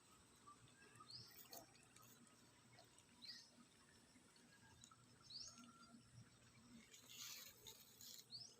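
Faint bird chirps: a short, high, rising chirp repeated about every two seconds, four times, over quiet background hiss.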